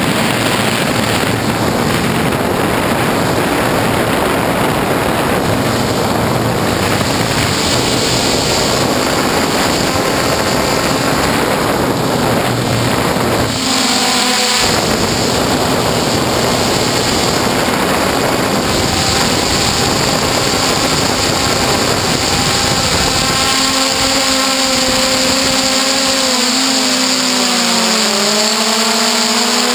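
F450 quadcopter's brushless motors and propellers whining under a heavy rushing noise, the motor pitch shifting up and down in the last quarter.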